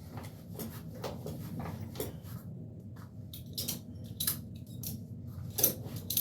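A person moving about while stretching on the floor: scattered light clicks and rustles over a low steady hum, a few louder ones near the end.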